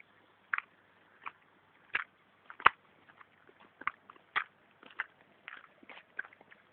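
Water drops falling irregularly onto a hard surface: sharp single taps about two or three a second, uneven in loudness, with one louder tap a little before the middle.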